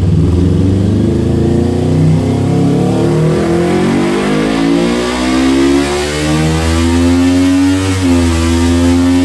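Kawasaki Ninja 400's parallel-twin engine, breathing through an aftermarket exhaust, pulling hard on a dynamometer run: its pitch climbs steadily for about eight seconds, dips briefly, then holds high.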